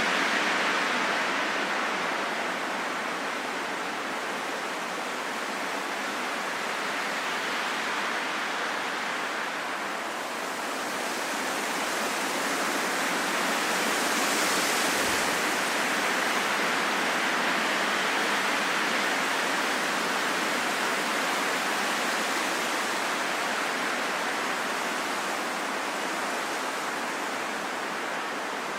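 Wind blowing steadily as a soft rushing noise that swells and eases slowly, with a stronger gust about halfway through.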